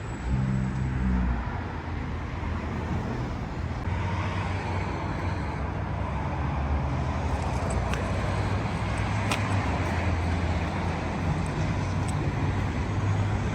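A motor vehicle running steadily, a low engine drone under a haze of road noise.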